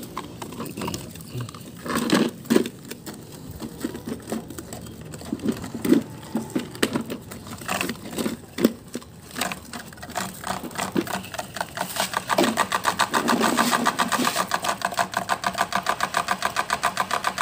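Plastic toy parts knocking and clicking. About twelve seconds in, a toy vehicle's small motor and gears start running with a fast, even clatter.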